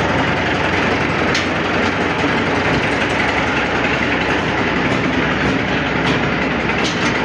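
A diesel locomotive running steadily with the train under way, a dense, even rumble of engine and track noise.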